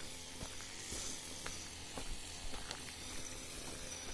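Faint outdoor ambience: a lawn mower running steadily at a distance, with scattered light footsteps over a hissy background.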